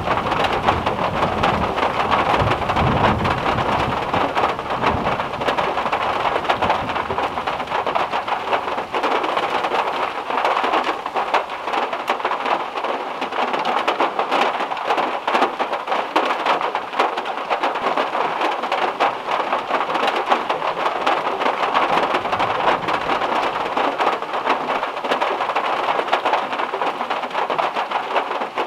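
Heavy rain pattering steadily on a car's metal roof, a dense wash of fine drop ticks. A low rumble of thunder dies away over the first several seconds.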